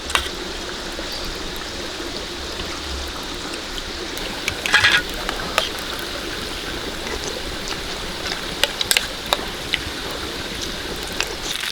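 Steady rain falling, with scattered sharp clicks and drips over it.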